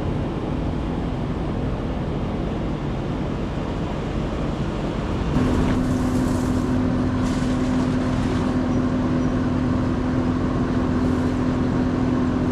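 A motor running steadily. About five seconds in, a steady hum starts and holds, with a couple of seconds of hissing that goes with the watering under way.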